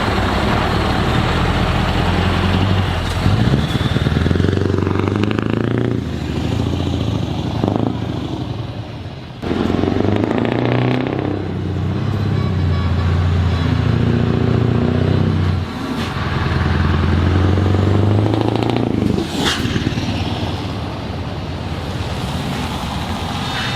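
Heavy truck diesel engines running as trucks drive past, the engine note rising and falling several times with short breaks in between. A brief high gliding tone sounds near the end.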